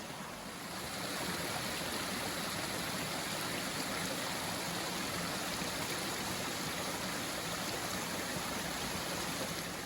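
Stream water running steadily over rocks, an even rushing trickle.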